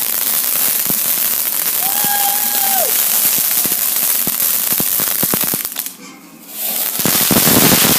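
Ground firework crackling and popping in rapid clicks over a steady hiss. It drops out briefly about six seconds in, then comes back.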